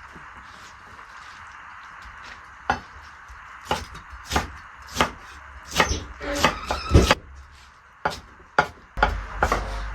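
A series of about a dozen irregular sharp knocks and clacks, some in quick clusters, the loudest about seven seconds in, over a faint steady hiss.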